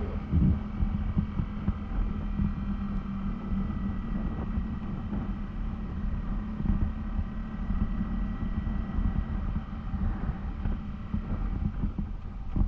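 Honda CBR250R's single-cylinder engine running steadily, with irregular low thuds throughout.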